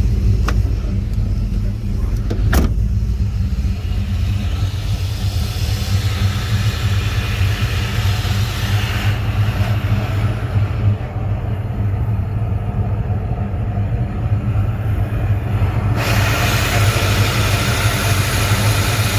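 Holden LS1 5.7-litre V8 with a Brian Tooley NSR aftermarket cam running steadily at idle on its first start after the cam swap, untuned, through headers, high-flow cats and a 2.5-inch cat-back exhaust. Two sharp clicks sound in the first few seconds.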